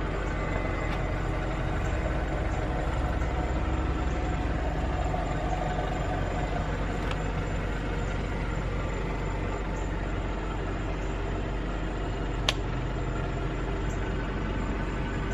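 A car idling steadily, with a constant low hum. There is one sharp click late on.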